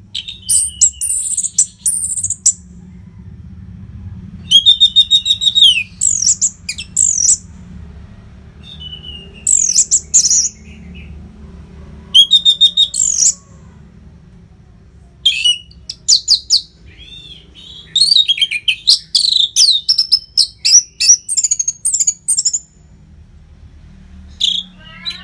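Orange-headed thrush (anis merah) singing: loud bursts of rapid whistled and trilled song phrases, each lasting one to two seconds, with short pauses between. A faint steady low hum runs underneath.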